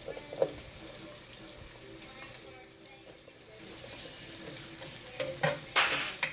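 Chopped garlic and onion sizzling in hot corn oil in a deep pan, a steady hiss, with a knock about half a second in and a few louder scrapes of a utensil stirring near the end.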